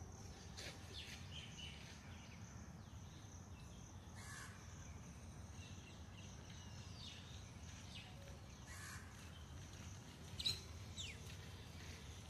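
Faint scattered short bird calls over a steady outdoor hiss, with the sharpest call about ten and a half seconds in.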